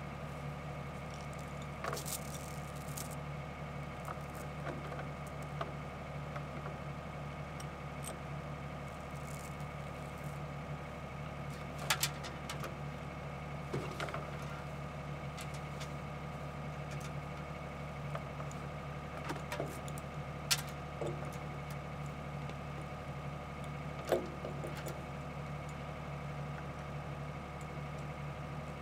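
Excavator's diesel engine running at a steady idle, with a few short metallic knocks and clanks now and then.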